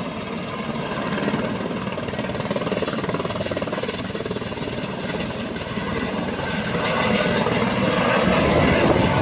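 Helicopter running, its rotor chop and engine noise steady at first and growing louder over the last few seconds.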